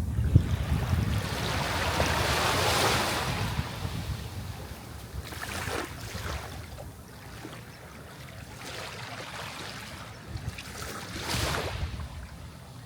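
Sea waves washing ashore: one big surge of surf that builds over the first three seconds and then subsides, followed by two smaller washes, one in the middle and one near the end.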